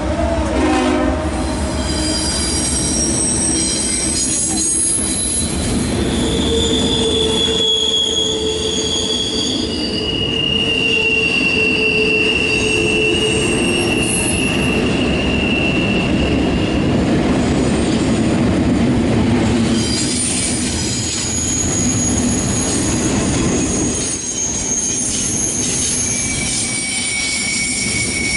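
CSX double-stack intermodal train rolling past close by: a steady rumble and clatter of wheels on rail, with several drawn-out high-pitched wheel squeals from the container cars.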